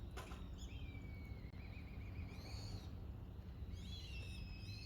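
Wild birds calling: a drawn-out whistle about a second in that breaks into a quick trill, then short arching whistled calls near the middle and the end, over a steady low outdoor rumble.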